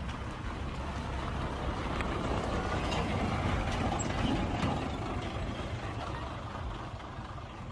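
Heavy diesel engine of a construction vehicle running, swelling a few seconds in and then easing off.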